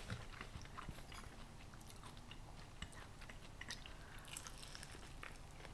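Faint chewing and biting on elote, grilled corn on the cob: soft mouth sounds with small scattered clicks, a few sharper ones about four seconds in.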